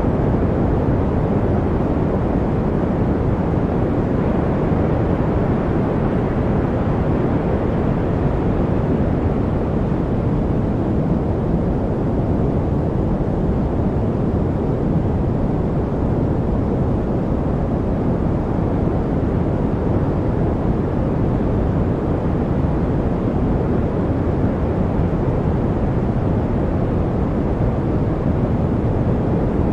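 Steady, unbroken background noise sold as white noise for studying, deep and rumbling rather than hissy, with no change or events.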